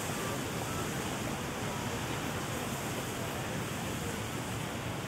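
Steady rain falling on a wet city street: an even wash of noise with no distinct events.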